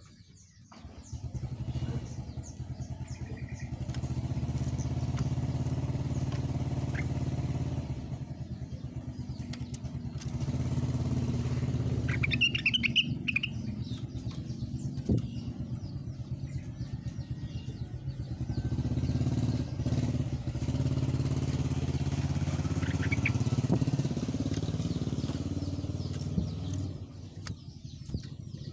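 An engine running steadily with a rapid low pulsing, easing off briefly a few times, with a few short bird chirps about twelve seconds in.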